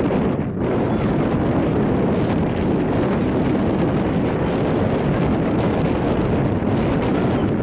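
Wind blowing across the camera's microphone: a steady, loud noise with no distinct events.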